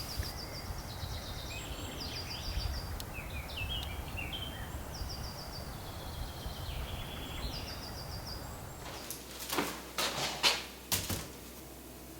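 A small songbird singing short, rapid, high trilled phrases, repeated several times over a steady low outdoor rumble. About nine seconds in, the background changes and a few sharp knocks and clicks follow.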